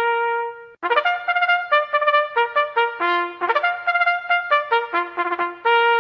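Background music: a trumpet-like brass melody of quick short notes and a few held notes, with a brief pause about a second in.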